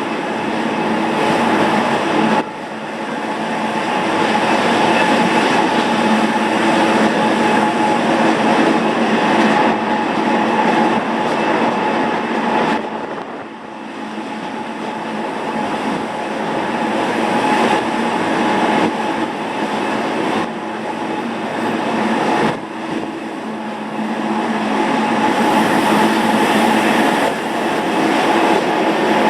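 Gornergrat electric cogwheel (rack) train running steadily: a continuous rolling rumble with held tones from the drive, dipping briefly in loudness a few times.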